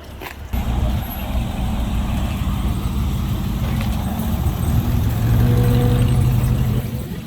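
A motor vehicle's engine running close by, a low rumble that comes in suddenly about half a second in, grows louder toward the end and then drops away.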